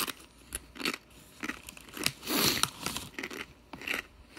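Someone chewing a crisp cassava chip: a string of sharp crunches a few tenths of a second apart, with a longer crinkle of the foil chip bag about two seconds in.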